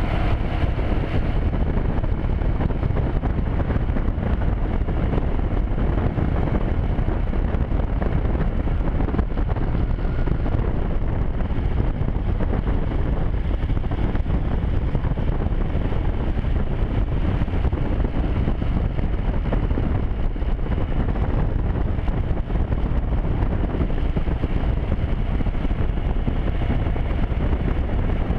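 Motorcycle running at a steady cruise, with wind rushing over the microphone.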